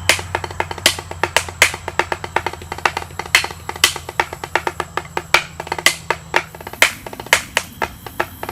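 Drumsticks playing fast on a snare drum practice pad: a dense stream of crisp taps with louder accented strokes scattered through it, over a low steady hum that fades near the end.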